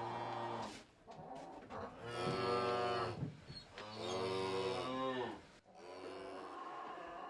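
Cattle mooing: a call tails off just after the start, then come three long, drawn-out moos one after another, the last one fainter.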